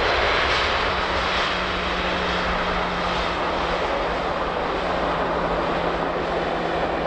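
Jet airliner engines running: a steady rushing noise with a low hum that sets in about a second in.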